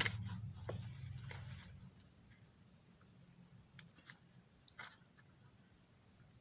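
A few faint, sharp clicks and light taps, small plastic model parts being handled, over a low hum that fades out about two seconds in.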